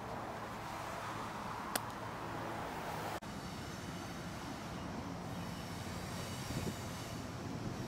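Freight train crossing a railroad bridge: a steady rushing noise with one sharp click about two seconds in, then diesel locomotives rumbling across with a thin, high wheel squeal from about four seconds in.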